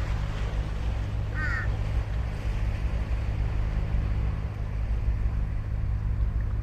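Ocean surf washing steadily on a sandy beach, with a low wind rumble on the microphone. A crow caws once, briefly, about a second and a half in.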